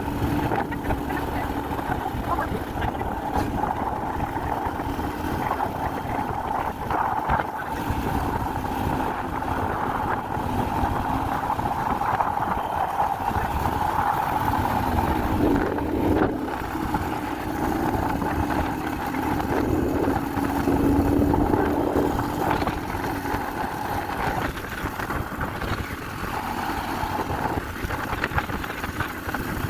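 Steady engine and road noise of a moving vehicle, a constant hum with no breaks.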